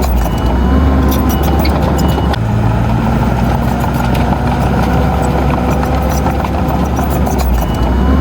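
Diesel engine of heavy earthmoving machinery running steadily, with scattered sharp metallic clicks.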